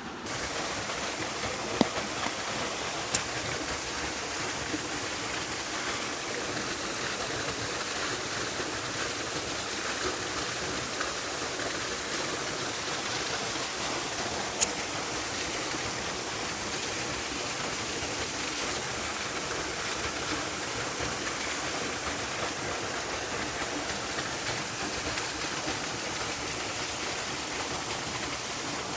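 Steady rushing noise, with three short sharp clicks.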